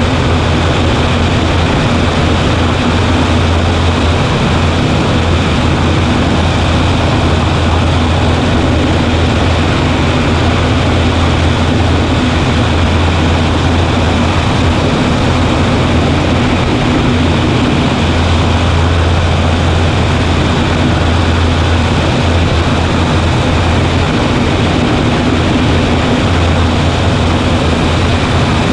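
Cessna 140A light single-engine airplane in steady flight: a constant engine and propeller drone with a strong low hum, unchanging throughout.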